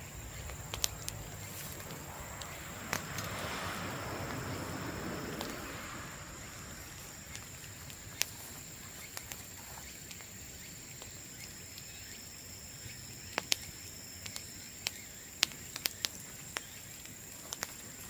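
Bamboo bonfire crackling, with scattered sharp pops and ticks throughout and a louder rushing swell for a few seconds near the start.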